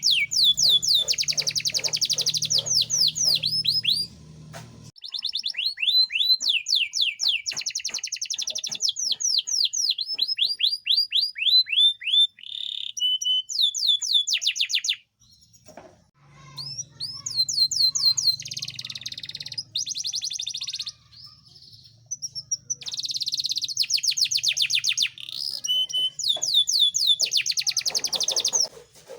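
Yorkshire canary singing: long, rapid trills of repeated falling notes, in phrases broken by short pauses. A low hum runs under parts of the song.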